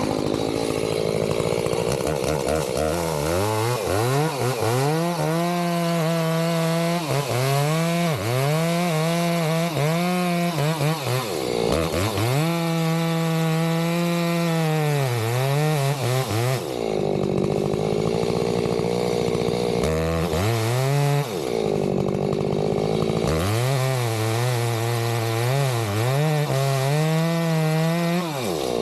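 Two-stroke chainsaw running at high revs while cutting into a tree trunk. Its engine pitch repeatedly sags and recovers as the chain loads up in the wood, and it drops off the high note for a few seconds past the middle before climbing again.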